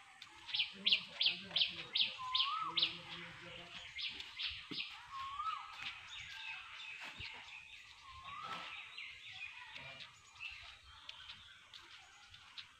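Birds calling. One bird repeats a short rising whistle about every three seconds, while another gives a quick run of sharp chirps, about five a second, in the first few seconds and again briefly a little later.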